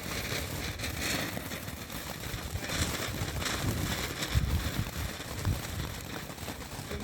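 Ground firework burning with a noisy hiss and crackle that surges a few times, with low uneven rumbles partway through.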